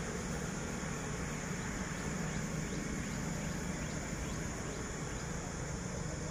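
Distant diesel locomotive approaching, heard as a steady low engine drone mixed with a general hum of road traffic.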